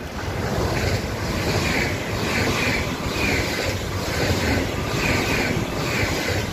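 ICE 4 high-speed trainset passing close by at speed: a loud, steady rush of wheels and air, with a brighter hiss coming back about every 0.7 s as the cars and their bogies go by.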